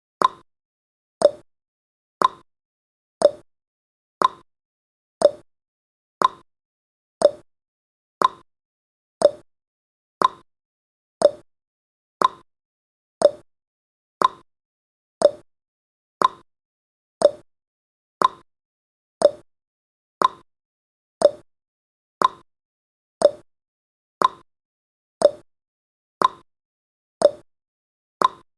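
Countdown timer's ticking sound effect: one short click every second, alternating between a lower and a higher pitch like a tick-tock.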